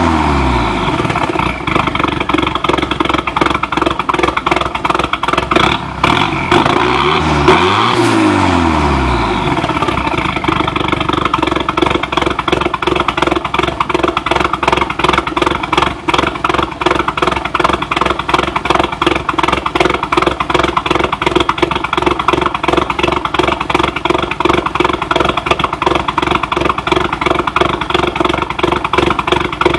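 1989 Chrysler Conquest TSi's turbocharged 2.6-litre four-cylinder engine through a 3-inch exhaust with an SRS muffler: the revs fall back at the start, one quick blip up and back down about seven seconds in, then a steady idle.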